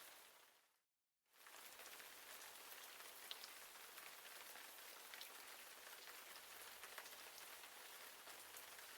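Rain falling steadily, an even hiss with scattered sharp drop ticks. It fades out to silence just before a second in, then comes back within a moment and carries on.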